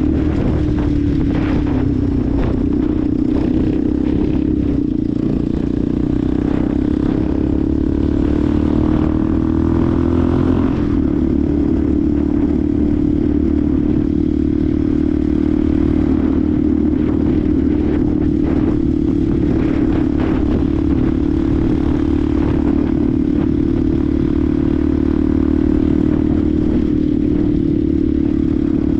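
Benelli TNT 125's single-cylinder four-stroke engine running under way. Its note rises steadily from about six seconds in to about eleven, as the bike accelerates, then holds a steady pitch while cruising.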